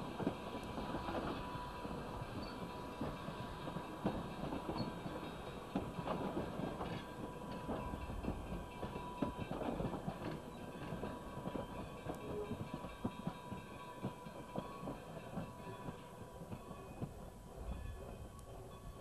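Passenger train coaches rolling past on the adjacent track, a steady rumble with irregular clicking and clanking of wheels over rail joints, easing off near the end.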